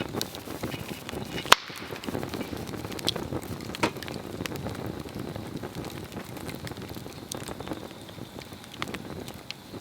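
Swedish torch log burning, the flames crackling steadily with scattered small pops and one sharp, loud pop about a second and a half in.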